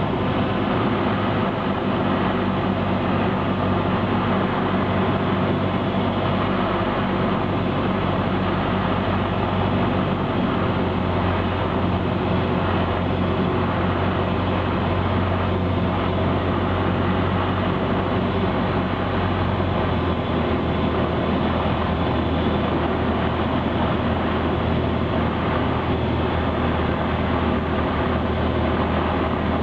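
Cessna 172's piston engine and propeller running steadily, a constant loud drone with a low hum, heard from inside the cabin.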